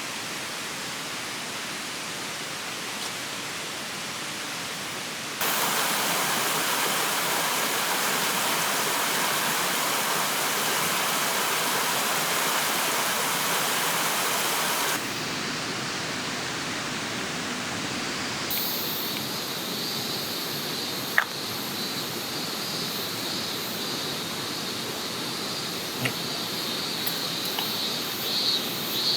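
Steady rush of a forest river, jumping louder about five seconds in and dropping back about fifteen seconds in. From about eighteen seconds in, insects chirp in a pulsing rhythm over the water, with a sharp click a little later.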